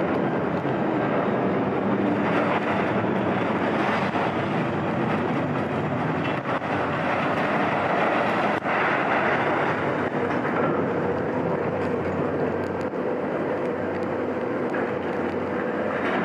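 A heavy vehicle's engine running steadily under a dense, even hiss, with a few faint clicks and knocks.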